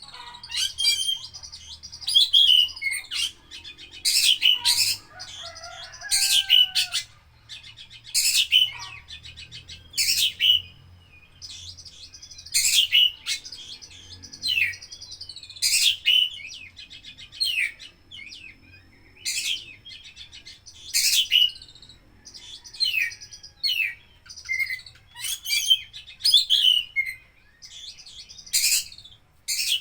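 Oriental magpie-robin (kacer) singing steadily: loud, sharp, high-pitched phrases and whistled glides every second or two, packed with mimicked calls of other birds.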